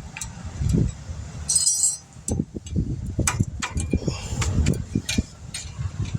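Light metallic clicks and clinks of brake pad hardware clips being handled and pushed into a caliper bracket, with a brief hiss about one and a half seconds in, over a steady low rumble.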